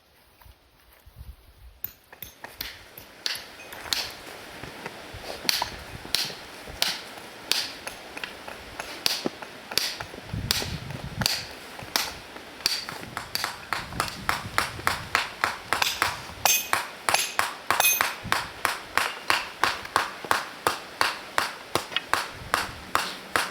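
Rapid, repeated strikes of a metal hand tool into stony ground, some with a short metallic ring, about two a second at first and quickening to about three a second.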